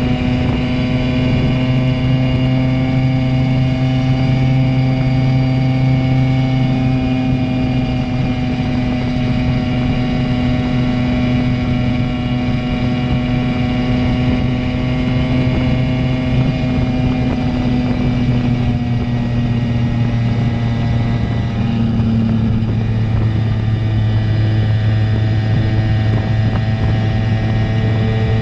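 Simson moped's single-cylinder two-stroke engine running at a steady, fairly high speed through a JW 85G+ aftermarket exhaust, its pitch dipping a little about two-thirds of the way through before holding steady again.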